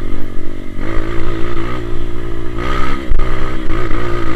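Honda CRF230 dirt bike's single-cylinder four-stroke engine pulling hard up a steep hill climb, its pitch rising and falling as the throttle is worked, with a brief dip a little after three seconds in.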